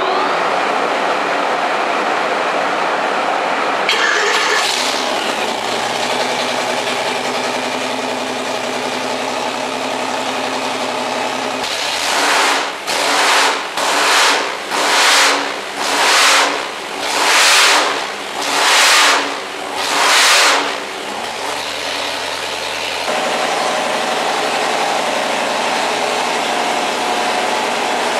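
A 572 cubic-inch all-aluminum supercharged Hemi V8 with two carburetors running on an engine dyno. About twelve seconds in it is blipped about eight times in quick succession, roughly one rev a second, then settles back to a steady run.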